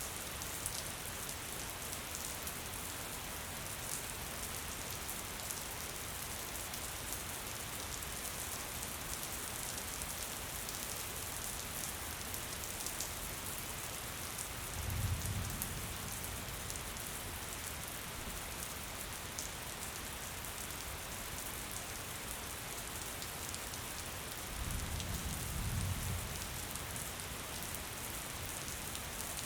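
Steady gentle rain falling, with many small drops ticking close by. Two brief low rumbles rise and fade, about halfway through and near the end.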